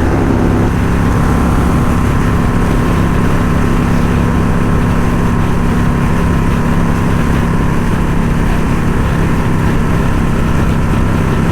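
Indian Scout Bobber's V-twin engine running at a steady cruise. The engine's hum is heard under a constant low rumble of road and wind noise.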